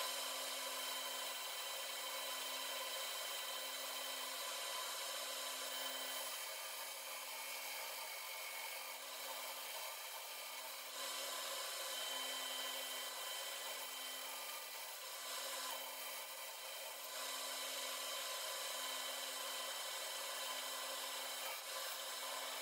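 Metal lathe running while a boring tool takes a steady cut inside a machined bearing end cover, heard as an even, fairly faint cutting hiss over a low hum.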